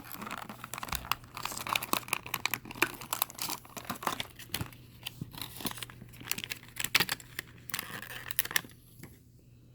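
Plastic blister packaging being cut open with a razor and pulled apart, with a dense run of irregular crinkles and crackles that dies away near the end.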